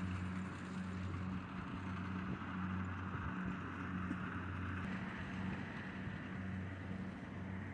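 Kubota DC-70 combine harvester's diesel engine running steadily in the field, a constant low hum with a hiss of machinery over it.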